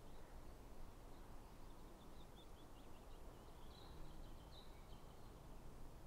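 Faint forest ambience: a low steady hiss with scattered small bird chirps, short high calls coming from about a second and a half in until near the end.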